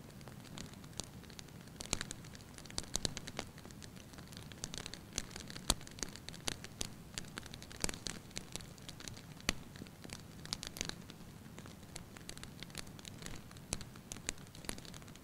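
Wood fire crackling in a fireplace: irregular sharp pops and snaps over a low steady rumble of flame.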